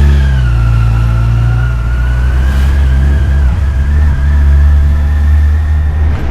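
Yamaha FJR1300's inline-four engine pulling steadily under way, its pitch climbing just before, dipping a little in the first second, then holding.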